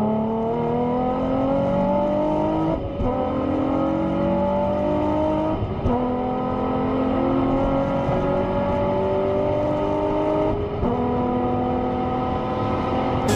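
Nissan 350Z's 3.5-litre V6 heard from inside the cabin, accelerating hard: the engine note climbs steadily in each gear and drops back at upshifts about three, six and eleven seconds in.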